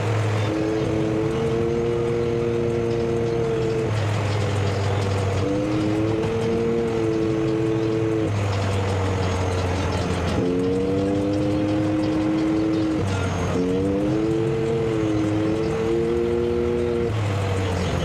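Vehicle engine and road noise from a moving group of motorcycles and three-wheelers. Music plays over it, with held chords and a bass note that change every couple of seconds.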